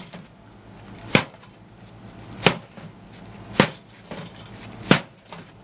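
Four hard blows on a microwave oven's metal casing, evenly spaced about a second and a quarter apart. The steel-and-screws housing is holding up under the strikes.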